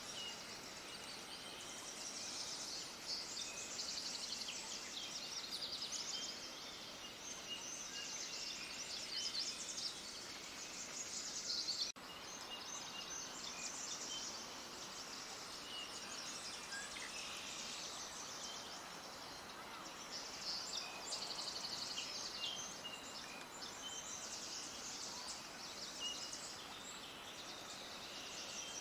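A dense chorus of many small birds chirping at once: rapid, overlapping high chirps with no let-up. There is a brief break about twelve seconds in, and then the chorus carries straight on.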